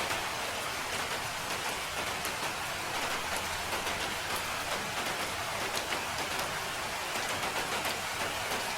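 Steady rain falling, an even hiss of rain with scattered individual drops ticking on a surface.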